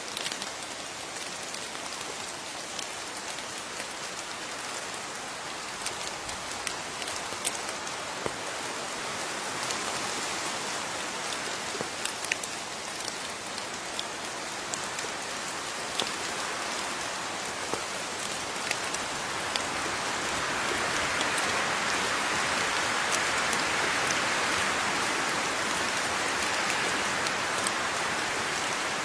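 Steady rain falling, with individual drops tapping nearby surfaces. The rain grows heavier about two-thirds of the way through.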